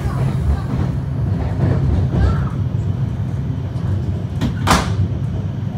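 Steady low rumble of a passenger train running, heard from inside the carriage, with a short sharp hiss about three-quarters of the way through.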